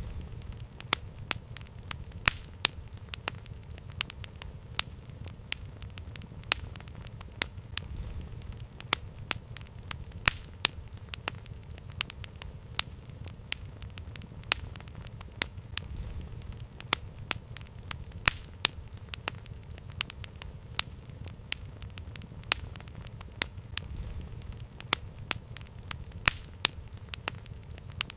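Campfire burning, crackling with frequent sharp pops over a low, steady rumble of the flames.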